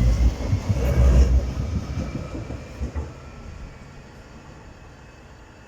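Nottingham Express Transit tram 202, a Bombardier Incentro, passing close by with a low rumble that fades away over about three seconds as it moves off.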